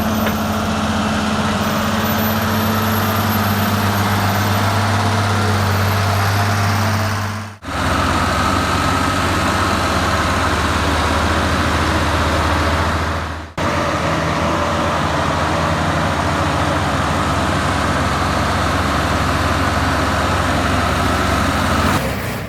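Heavy truck engine running steadily with a low, even drone. It cuts off and restarts sharply twice, as separate clips are joined.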